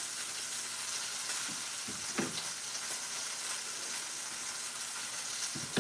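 Salmon fillets sizzling in a hot pan under a grill press: a steady frying hiss, with a couple of soft knocks of cookware, one about two seconds in and one at the end.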